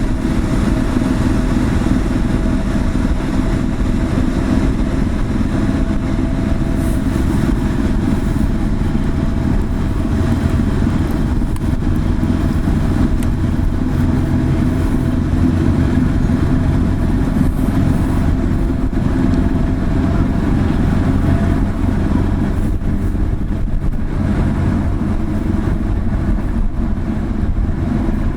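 Ship's diesel engines running with a steady, loud low drone as the car ferry Dai-12 Ōsumi gets under way leaving port.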